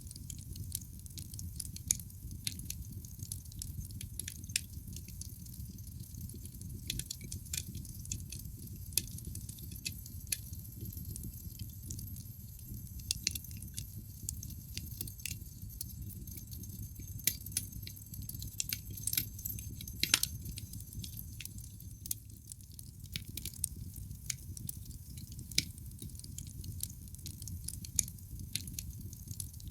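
Wood fire crackling in a fireplace: irregular sharp pops and snaps over a steady low rumble of the flames, with one louder pop about twenty seconds in.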